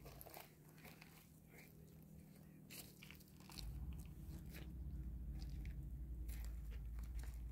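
Footsteps crunching on a rocky, gravelly trail, a scatter of short scuffs and crunches, with a steady low rumble setting in about halfway through.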